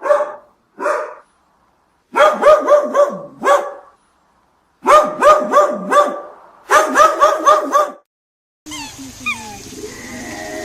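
An animal giving loud, rapid barking calls in runs of four to six. Near the end it cuts to a quieter recording of short, high whistling chirps over a steady hiss.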